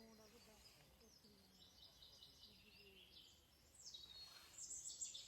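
Faint birdsong: small birds chirping over a quiet background, with a louder run of chirps near the end.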